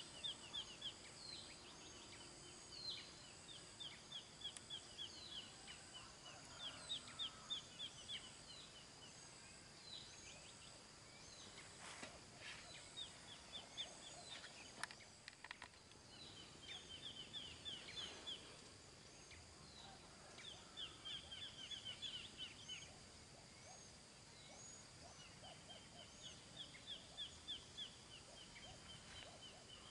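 Faint birdsong: quick runs of short, high chirps repeated every few seconds, over a steady high-pitched whine.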